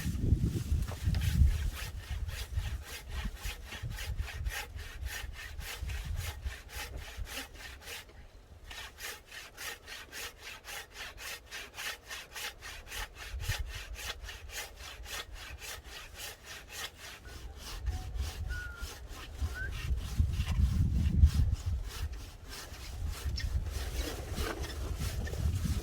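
Hand saw cutting firewood in steady back-and-forth strokes, about three a second, with a short pause about eight seconds in. A low rumble comes under it near the start and again about twenty seconds in.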